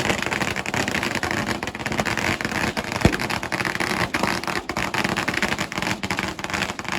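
Fireworks crackling in a dense, continuous rattle of many small rapid pops, with one louder bang about three seconds in.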